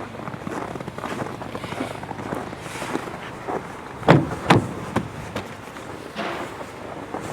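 Two loud thumps about half a second apart, then a sharper click, over steady background noise.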